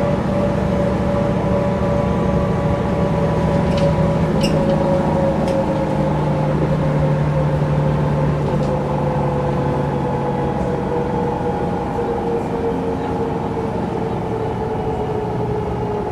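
Mercedes-Benz O405 N² low-floor city bus heard from on board: the diesel engine and Voith automatic gearbox run with a steady whine that slowly falls in pitch as the bus eases off. A few short clicks come about four seconds in.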